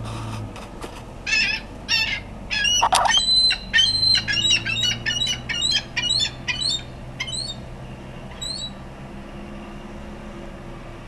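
Ring-billed gull calling in a fast, loud run of short calls, two or three a second, that dies out after about seven seconds, with a last pair of calls shortly after. A steady low hum runs underneath.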